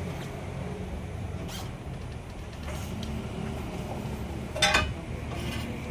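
Sawmill machinery running with a steady low engine rumble. A short, sharp clatter comes about four and a half seconds in, with a few faint knocks around it.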